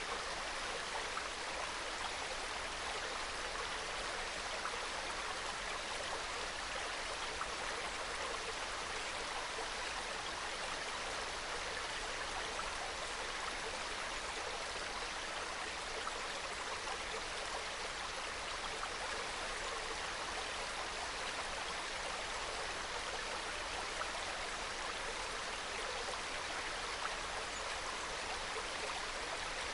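Small mountain stream flowing steadily over rocks, a soft, even babble and trickle of water.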